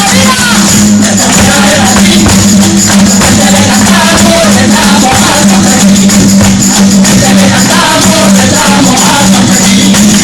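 Live Andalusian folk music played loud: voices singing over a tambourine and steady rhythmic percussion, with a constant low hum beneath.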